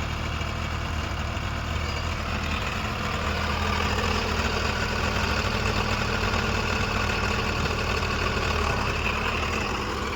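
New Holland 45 hp tractor's diesel engine running steadily, a little louder from about three seconds in.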